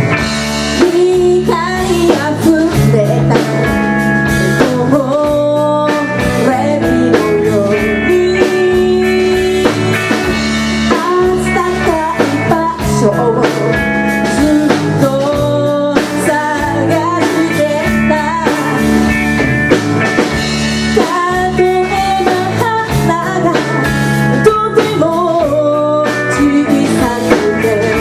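Live rock band playing a song with electric guitar and drum kit, loud and steady throughout.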